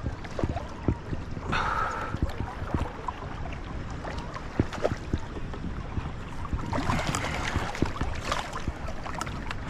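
Water splashing and sloshing around a kayak while a hooked smallmouth bass is fought at the surface, with scattered small knocks and clicks. There are two louder flurries of splashing, one about a second and a half in and a longer one near the end.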